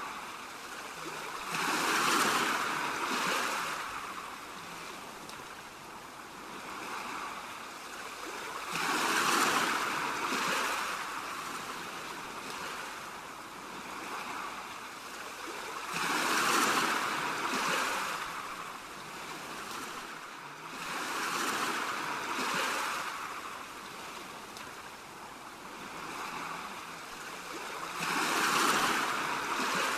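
Ocean waves washing onto a shore. The hiss of the surf swells and recedes, with five larger waves coming in about every six to seven seconds.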